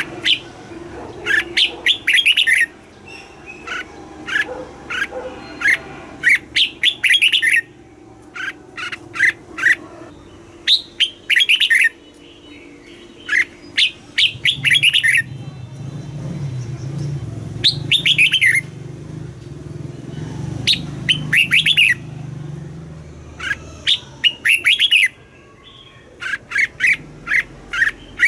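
Red-whiskered bulbul singing: repeated phrases of quick, bright whistled notes, each phrase a second or two long with short pauses between. A low steady hum runs underneath for several seconds in the middle.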